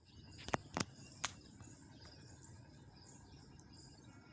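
Faint outdoor ambience with insects or birds chirping high and thin. Three sharp clicks come in the first second and a half.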